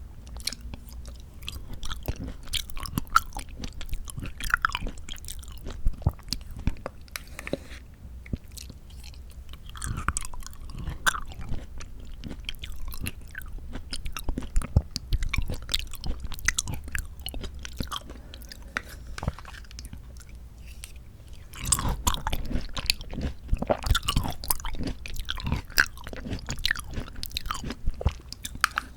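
Close-miked wet chewing of mandarin orange segments from a fruit cup, with many small irregular smacking and clicking mouth sounds that come in busier clusters about ten seconds in and again about two-thirds of the way through.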